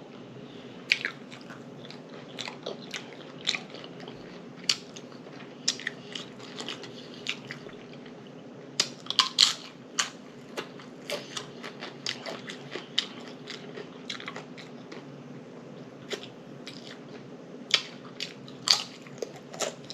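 Close-miked chewing and lip smacking of a chicken taco salad: irregular wet clicks and smacks, with a few crunches, coming thicker in the second half. A steady low hum sits underneath.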